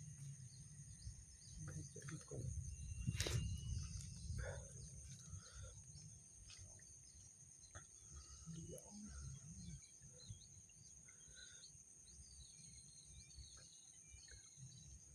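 Rice-field ambience: insects hold two steady high tones, with scattered short bird chirps over a low rumble on the microphone. A few sharp clicks come about three seconds in, the loudest moment.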